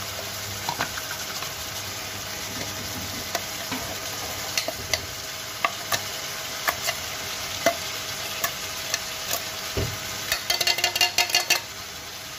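Minced beef keema sizzling as it fries in an open pan with its juices cooked off, with scattered light clicks of a utensil on metal. About ten seconds in comes a quick run of metal clinks.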